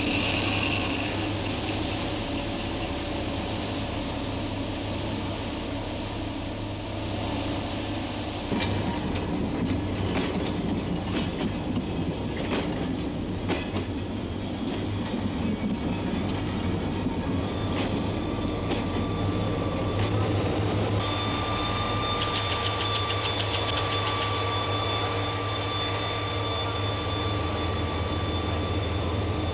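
Railway passenger carriages rolling slowly on track: a steady low rumble with sharp clacks of the wheels over rail joints. Past the middle a thin, steady high-pitched wheel squeal joins in.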